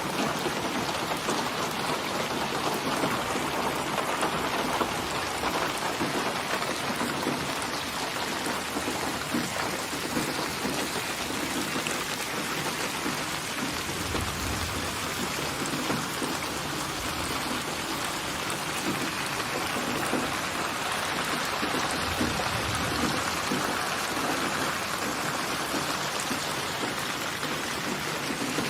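Steady rain falling, an even continuous patter. A low rumble of distant thunder comes in about halfway through and again a little later.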